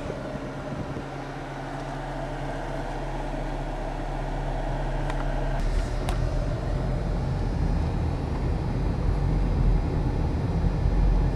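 Car engine and road noise heard from inside the cabin while driving: a steady low hum whose pitch shifts about halfway through.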